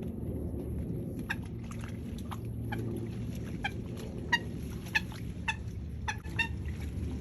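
A wetland bird giving short, repeated calls, about one every half second to a second, over a steady low rumble.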